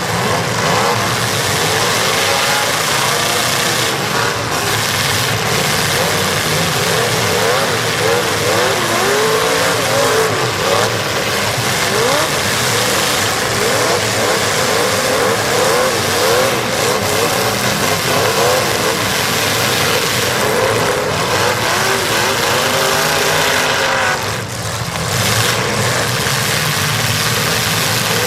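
Several demolition derby cars' engines revving up and down over one another, loud and continuous, with a short lull near the end.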